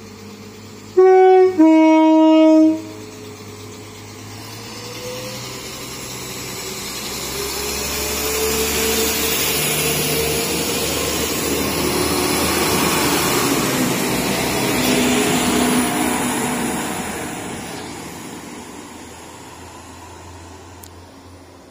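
Northern Ireland Railways Class 4000 diesel multiple unit sounding its two-tone horn about a second in: a short high note, then a longer lower one. It then pulls away, its engines revving up with rising tones, growing loudest as the carriages run past and fading over the last few seconds.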